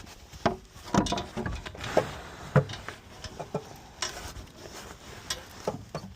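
Irregular metallic clinks and knocks of hand tools and parts being handled during work on a starter, about a dozen sharp hits with a few louder ones in the first three seconds.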